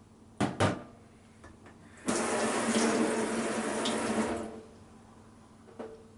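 Two sharp clicks, then water running for about two and a half seconds before stopping, with a faint click near the end.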